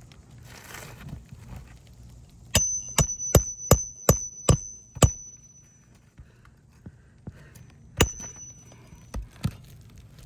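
Hammer striking a steel roofing nail or tool during shingle re-nailing: seven quick, ringing blows, then one more a few seconds later and a couple of lighter taps.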